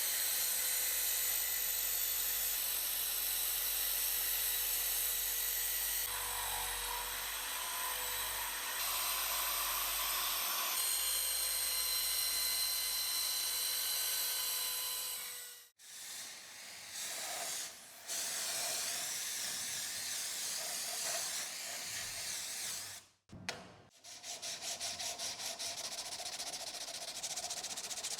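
Workshop tool work in edited segments. First a steady hiss with a high whine runs for about fifteen seconds and cuts off suddenly. Different tool noise follows, and then quick, evenly repeated rubbing strokes, like hand scrubbing or sanding of metal.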